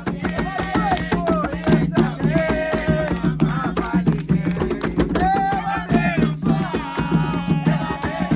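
Music of an Umbanda ponto: fast hand-drumming on atabaque drums, with a melody carried over the beat.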